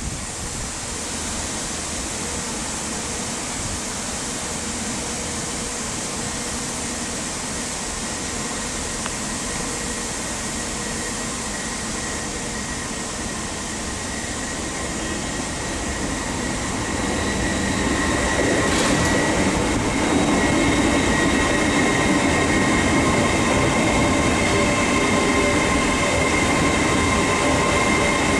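A train at a station platform, a steady mechanical rumble that grows louder over the second half as it moves nearer. Several steady high whining tones come in at the louder part, with a brief click partway through.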